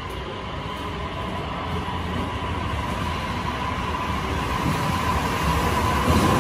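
JR 255 series Boso View Express electric train pulling out of the platform and picking up speed, growing steadily louder as its cars pass. Low rumble under an electric whine that rises a little in pitch near the end.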